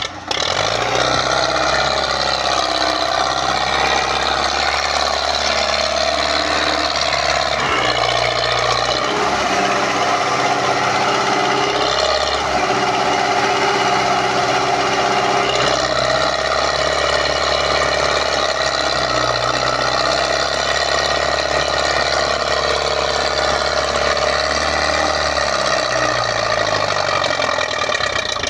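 MTZ tractor's diesel engine running under load, its engine speed shifting up and down in steps several times.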